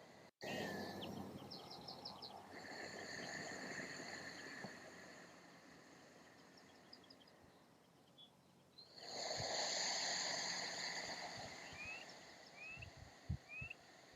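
Audible Ujjayi breathing: a long soft hiss of breath drawn through the nose against a slightly narrowed throat, lasting about four seconds, then after a pause a second long breath of about three seconds.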